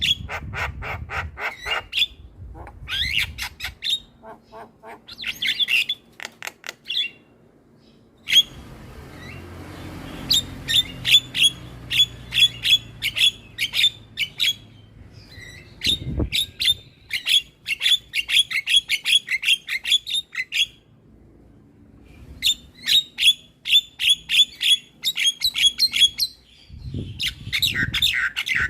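Javan myna (jalak kebo) calling in bouts of rapid, harsh, repeated chattering notes, several a second, broken by short pauses. A couple of low thuds fall in between.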